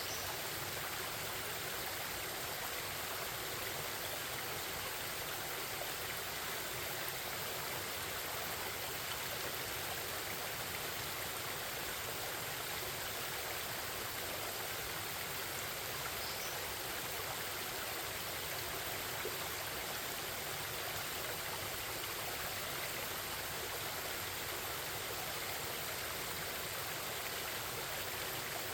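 Forest stream babbling over rocks: a steady, unbroken rush of flowing water with no change in level.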